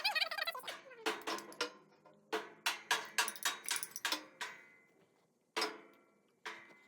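A series of sharp taps and knocks, irregular and some with a brief ring, about a dozen over several seconds. A baby's short vocal sound comes right at the start.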